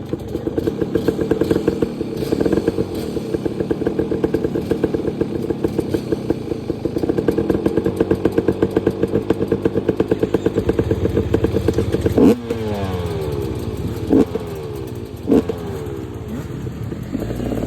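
Dirt bike engine running with a pulsing note. About twelve seconds in there is a sharp knock and the engine note falls away in pitch. Two more short knocks follow.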